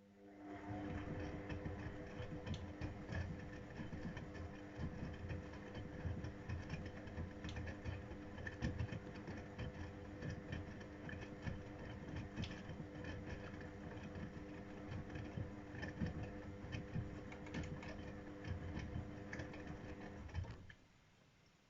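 AEG Öko-Lavamat 693 washing machine tumbling its drum on a 95 °C boil wash: a steady motor hum over the rumble and slosh of wet laundry turning in the drum, cutting off about twenty seconds in.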